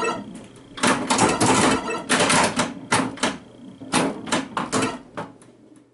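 Pinball machine in play: rapid clusters of sharp mechanical clacks and knocks that thin out and fade near the end.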